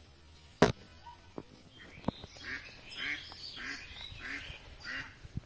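Ducks quacking in a repeated series from about two seconds in, with faint high bird chirps. A single sharp knock under a second in is the loudest sound, and a few fainter clicks follow.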